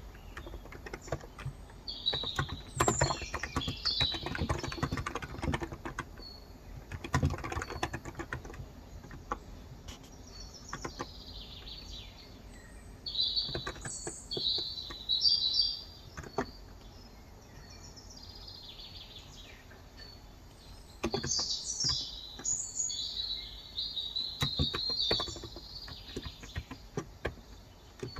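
Songbirds chirping in three short spells, over irregular keystrokes on a Cox Endeavor contactless (electro-capacitive) 35 g tenkeyless keyboard; the typing is sparse in the middle and busier near the start and end.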